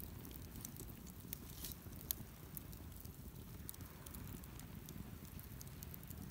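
Wood campfire crackling: irregular small pops and snaps over a steady low rumble, with one sharper pop about two seconds in.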